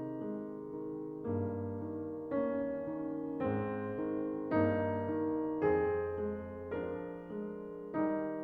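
Slow, gentle piano music, with a new chord struck about once a second and left to ring.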